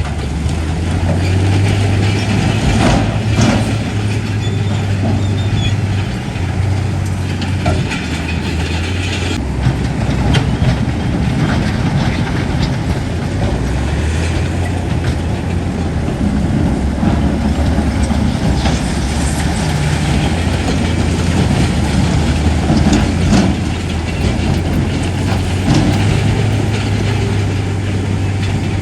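Heavy diesel earthmoving machinery working: a deep engine drone that shifts in note a few times as the load changes, with scattered metallic clanks.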